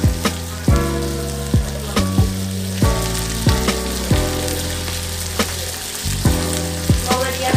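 Lingcod cheeks sizzling as they sauté in butter and garlic in a frying pan, under background music with steady chords and a deep drum hit about every two-thirds of a second.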